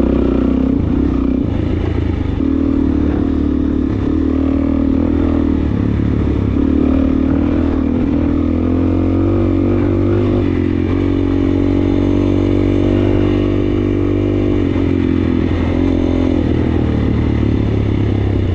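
Suzuki DRZ400S single-cylinder four-stroke dirt bike engine running on a trail ride. The revs climb through the middle and ease back off near the end.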